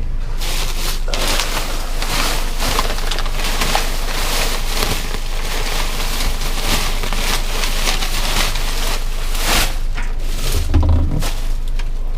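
Continuous rustling and crackling of trash being rummaged through in a dumpster, with many quick crackles.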